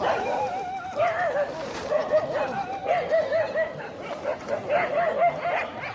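A dog whining, a high wavering whine whose pitch wobbles up and down several times a second, in repeated runs.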